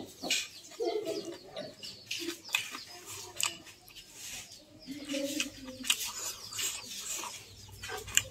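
Close-up mouth sounds of eating rice and curry by hand: wet chewing and lip-smacking in quick clicks, with birds calling in the background, a few short low calls about a second in and around the middle.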